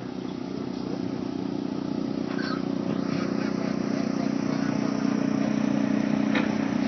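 An engine running with a steady hum that grows gradually louder.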